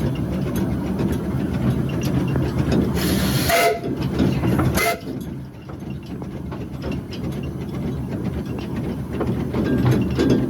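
Narrow gauge Hunslet-built steam locomotive heard from its cab, running slowly with a steady rumble and wheel clicks. There are two short bursts of steam hiss, about three seconds in and again near five seconds, and then the sound quietens.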